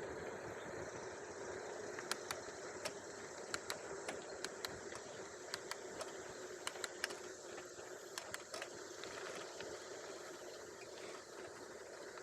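Mountain bike on road tyres rolling down a steep hill, heard through the handlebar-mounted phone: a steady rush of tyre and wind noise, with a scatter of sharp, irregular clicks and ticks from about two seconds in until past the middle.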